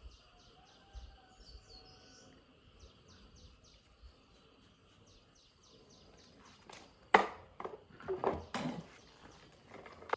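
Insects chirping in a quick regular pulse over a faint steady drone; from about seven seconds in, several sharp knocks and clatter of hard objects being handled.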